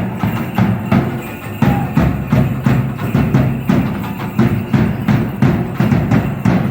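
Dance drumming: a drum beaten in a steady rhythm of about two beats a second, with a rattling or jingling on each beat.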